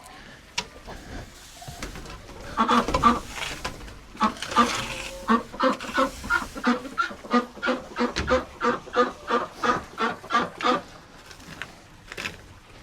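Domestic duck quacking over and over in a steady series, about three quacks a second.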